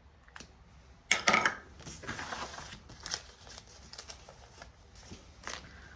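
Paper cash bills being handled and slid into a savings envelope: a sharp rustle about a second in, then a stretch of papery sliding and scattered light clicks and taps.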